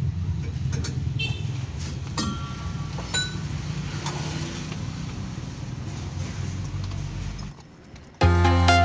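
Daihatsu Gran Max engine running at a steady idle, with a few light metallic clinks about one to three seconds in. The engine sound cuts off shortly before the end.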